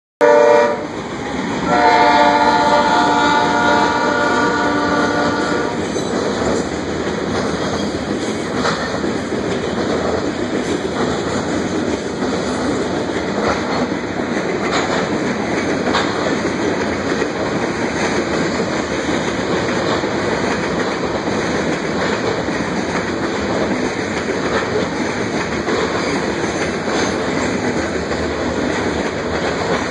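CSX freight locomotive's air horn sounding a short blast and then a long one of about four seconds at a grade crossing. A train of covered hopper grain cars then rolls steadily past, rumbling with the clicking of wheels over rail joints.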